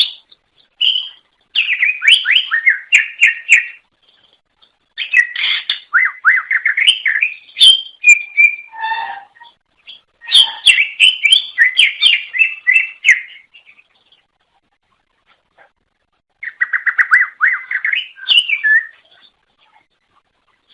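Cucak ijo (greater green leafbird) singing a loud, rapid, chattering song of quick whistled notes in bursts of a few seconds, with short pauses between phrases. This is a lure recording used to attract other cucak ijo.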